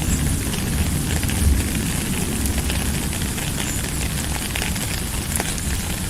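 Steady rain falling, a dense hiss with scattered sharp ticks of individual drops over a low rumble.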